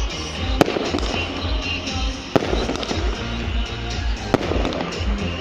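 Fireworks going off: three sharp bangs, about a second in, midway and near the end, over a steady crackling and popping of the display. Music with a steady beat plays along.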